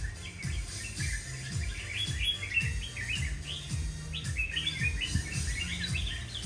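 Red-whiskered bulbul singing a run of quick chirping phrases, over background music with a steady bass beat.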